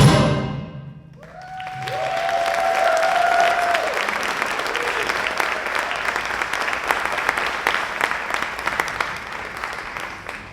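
A school concert band's final chord cuts off at the start, then the audience applauds, with one voice holding a whoop of a cheer early on. The clapping thins and fades near the end.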